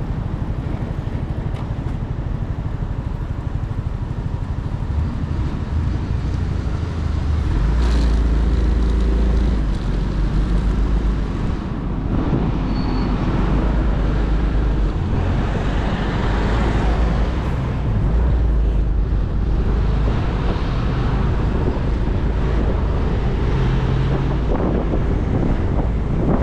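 Motorcycle on the move in road traffic: the engine runs under wind noise on the microphone. The engine gets louder about eight seconds in, eases off near twelve seconds, then picks up again as the speed changes.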